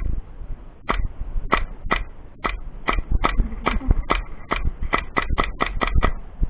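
Airsoft guns firing single shots, about sixteen sharp cracks at uneven spacing, coming faster, several a second, in the second half.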